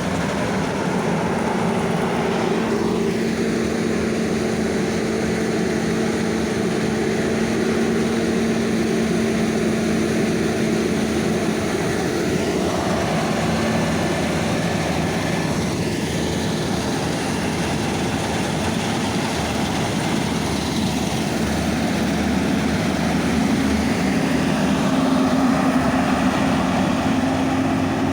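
Heavy diesel engine of farm machinery running steadily under load in the field, with a continuous drone whose pitch rises slightly near the end.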